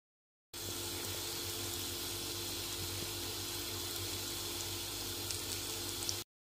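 Water running steadily from a tap, a constant hiss that starts suddenly about half a second in and cuts off abruptly near the end.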